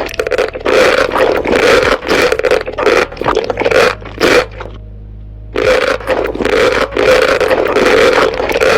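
Close-up eating sounds: a person chewing food near the microphone, in a dense run of crackly mouth noises that pauses for about a second halfway through.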